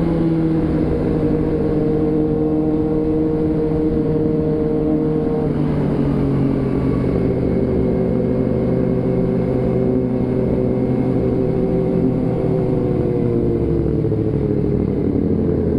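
Motorcycle engine running at a steady road speed, its note dropping about six seconds in and easing down again near the end.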